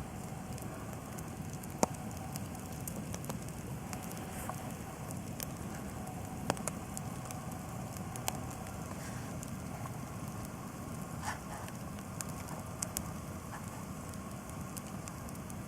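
Wood campfire crackling, with a steady low hiss and scattered sharp pops, the loudest about two seconds in.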